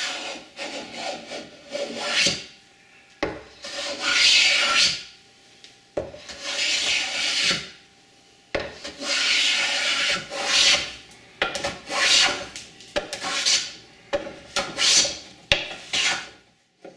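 Hand scraper or plane strokes shaving the laminated oak chair back: a series of dry scraping strokes, each up to about a second long, with short breaks between them.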